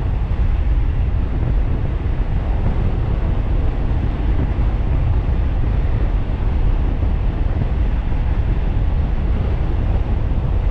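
Wind buffeting the microphone of a rider on a fast-moving electric bike: a steady, heavy rumble with no engine note.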